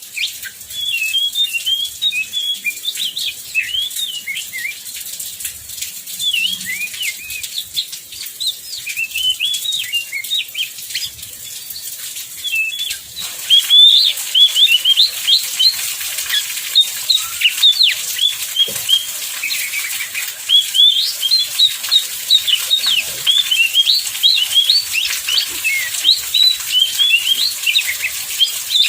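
Oriental magpie-robin (kacer) singing a fast, varied run of chirps and short whistles, louder from about halfway through.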